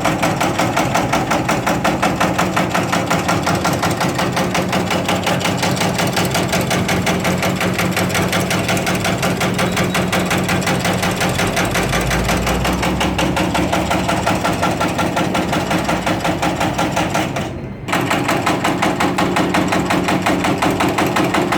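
Aloe vera dicing machine running, its cutter chopping in a fast, even rhythm of about five or six strokes a second over a steady motor hum. The sound drops out briefly near the end, then resumes.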